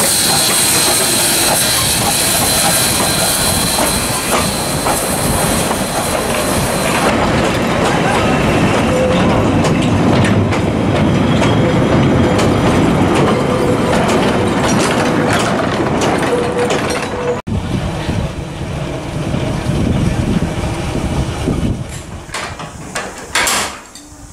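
Vintage steam train rolling past, its carriages, wagons and guard's van clattering over the rail joints, with a high hiss in the first several seconds and a thin steady wheel squeal later on. The sound drops away suddenly about seventeen seconds in.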